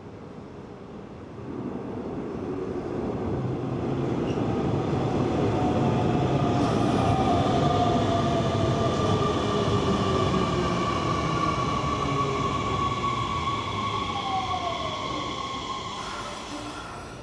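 Hanshin Railway electric train moving through the station: a rumble that builds, peaks midway and fades, with steady high-pitched whining and squealing tones and a few falling whines over it.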